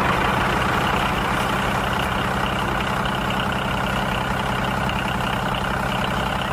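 Engine running steadily at idle, an even, unchanging drone.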